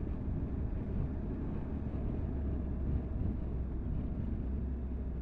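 Motorcycle riding at a steady pace: a continuous low engine drone mixed with wind and road noise.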